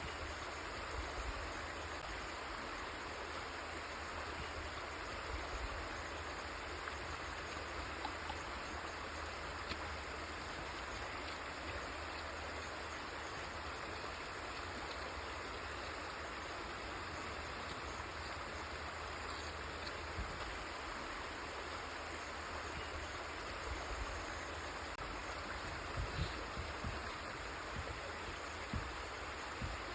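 River water flowing steadily, an even rushing with occasional small low thumps near the end.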